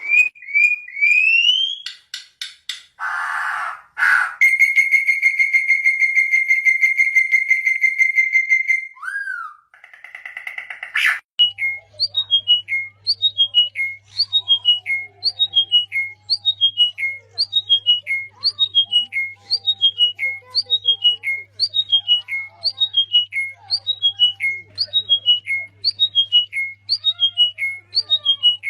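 Whistled bird-like calls. First come a few rising whistles, then a long steady whistle lasting several seconds. After that, a downward-sliding call repeats about one and a half times a second over a steady low hum.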